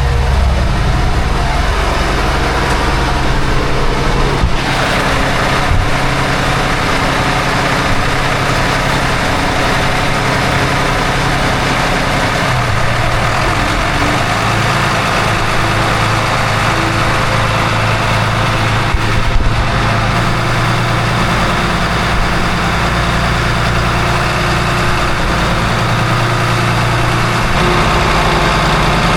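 Twin Volvo marine diesel engines running steadily; the port engine has just been started and is running at low revs with its supercharger belt removed.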